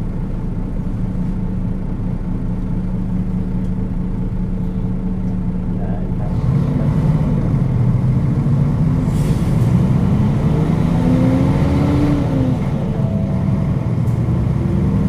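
Nissan Diesel KL-UA452KAN city bus's diesel engine idling steadily for about six seconds, then pulling away. The engine note rises as it accelerates, drops back at a gear change, and picks up again near the end.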